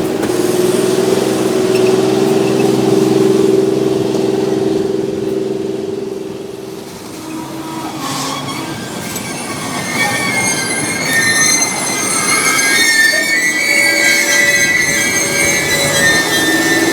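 Freight train rolling slowly through yard track: a steady low drone in the first half, then high-pitched steel wheel squeal from about eight seconds in.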